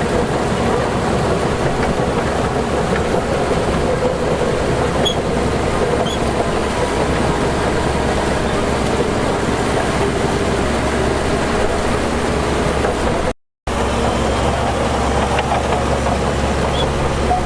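Heavy earthmoving machinery's diesel engine running steadily, with a brief complete dropout about three-quarters of the way through.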